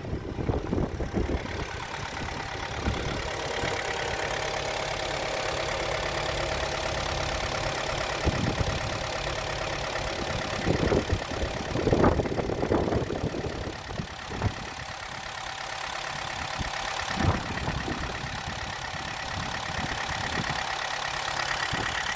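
Kia Sportage's G4KD 2.0-litre four-cylinder petrol engine, at 147,000 km, idling steadily. A few short louder thumps come through, the strongest about halfway in.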